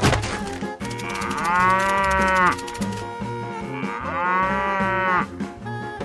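A cow mooing twice, each call drawn out for over a second, over background music with a steady beat.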